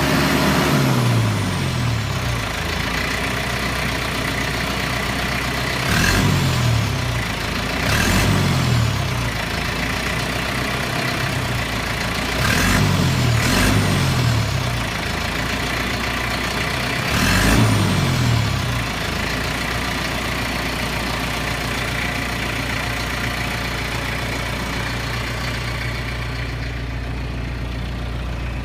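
Kubota MZ655 tractor's turbocharged diesel engine, with revs falling away at the start. It is then blipped five times; each quick rev-up is followed by a falling whistle as the revs drop back. After that it settles to a steady run.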